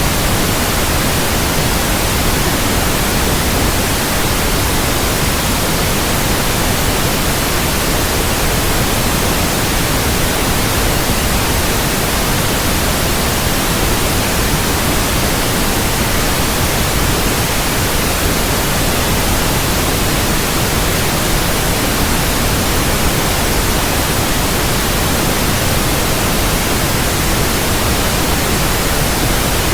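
Steady white noise, an even hiss spread across all pitches, unchanging throughout.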